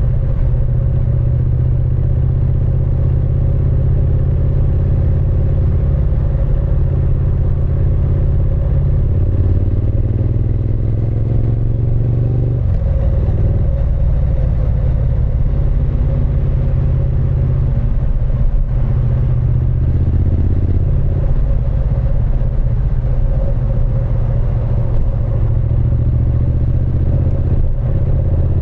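Triumph Speed Twin 900's parallel-twin engine and exhaust while riding. The engine note climbs steadily under acceleration about nine seconds in and drops abruptly at a gear change a few seconds later. There are shorter pulls later on.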